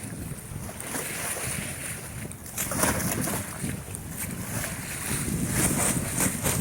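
Wind buffeting the microphone at the sea, with the rush of waves; the level rises and falls in gusts.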